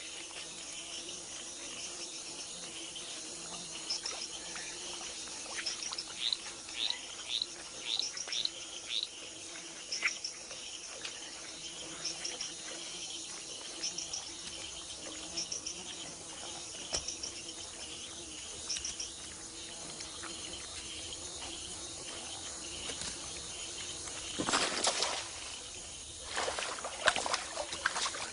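Tropical forest insect chorus, a steady high hiss with repeated short chirps, and a run of about six quick rising chirps some six seconds in. Near the end come two bouts of water splashing and sloshing.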